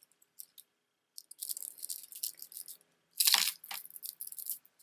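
Crinkly rustling of material being handled, coming in several short bursts, the loudest about three seconds in.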